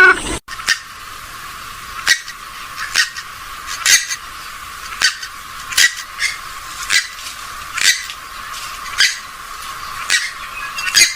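Recorded waterbird calls of the swamphen and moorhen kind: short sharp notes repeating about once a second, thin-sounding, with the low end cut off.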